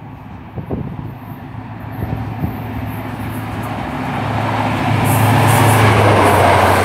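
CrossCountry HST with Class 43 diesel power cars approaching and passing through the station. A steady low engine drone builds from about four seconds in, and the rush of the train's wheels grows towards the end.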